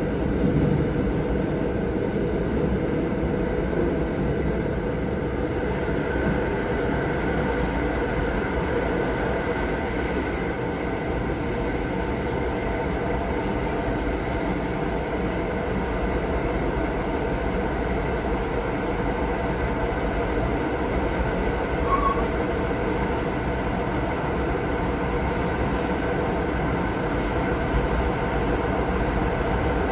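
Moving passenger train heard from inside the carriage: a steady rumble of the wheels on the track, with a few faint steady tones over it.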